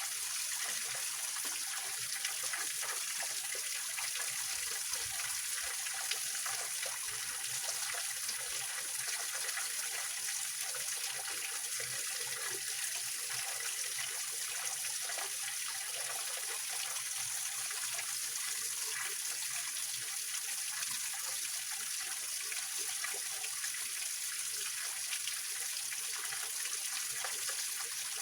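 Small waterfall and stream running over rocks: a steady splashing, trickling rush of water.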